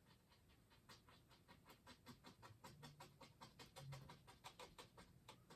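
Faint, quick tapping of a fan brush dabbing oil paint onto canvas, a few soft taps a second, to form a tree.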